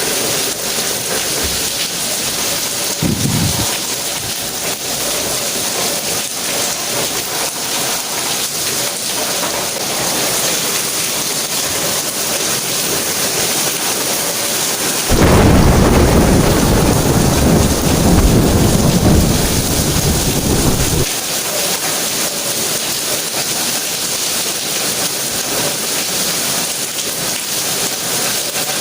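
Steady rain falling, with a long roll of thunder about halfway through that lasts some six seconds and stops abruptly. A short low rumble of thunder comes near the start.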